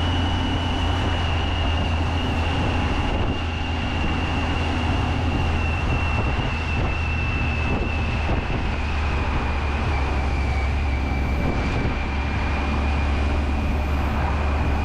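Triumph Tiger 800 inline-three motorcycle engine running steadily at riding speed, with road and wind noise. A thin high whine falls slowly in pitch.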